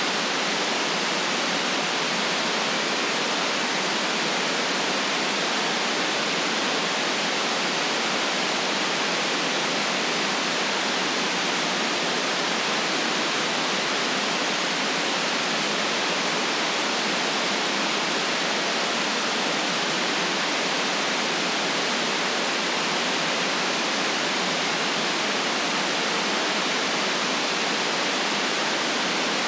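Steady white noise: an even, unchanging hiss with no deep rumble and no breaks or events.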